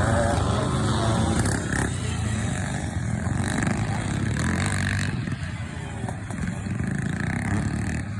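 Classic scramble motorcycles racing, their engines running hard at high revs with pitch rising and falling as riders work the throttle. The sound is a little louder in the first five seconds.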